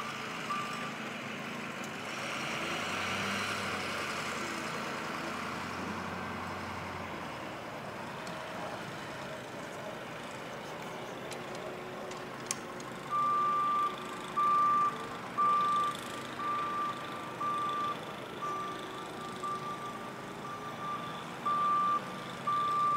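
Snowplow truck's reversing alarm beeping at the start, stopping, then starting again about halfway through at roughly one beep a second, over the truck's engine running.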